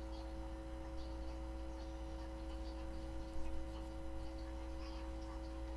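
Steady background hum with a low drone and a few level tones, with a few faint soft ticks from the knife work on the bird.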